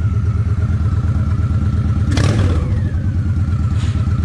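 Honda Shadow 750 ACE V-twin engine idling steadily with an even low pulsing, after cleaning of a partially clogged carburetor that had kept the front cylinder from firing. A short sharp clatter comes about two seconds in.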